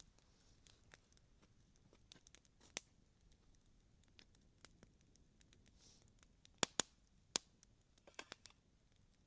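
Small campfire crackling faintly: scattered sharp pops and snaps, a few louder ones close together near the middle and end.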